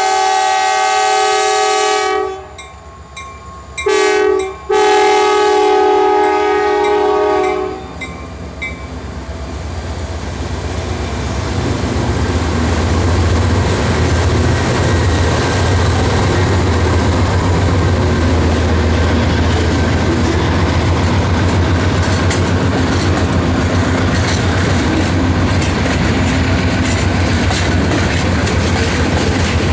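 EMD diesel freight locomotive sounding a multi-note air horn: a long blast, a short one, then a longer one ending about eight seconds in, the close of a grade crossing signal. The engine's low drone and the clatter of wheels on rail then grow louder as the train passes and stay steady.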